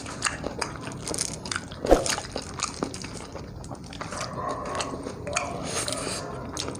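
Close-up eating sounds: biting and chewing, with many small mouth clicks and smacks and a sharper bite about two seconds in.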